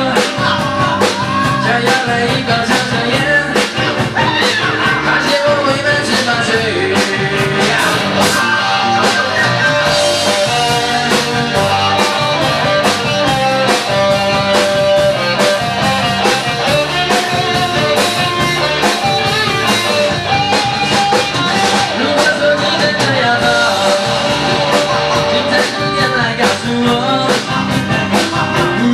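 Rock band playing a song, with a steady drum beat under guitar and a sung melody.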